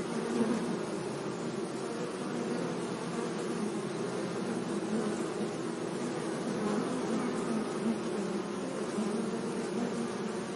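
Bees buzzing among flowers, a steady, wavering hum of several insects.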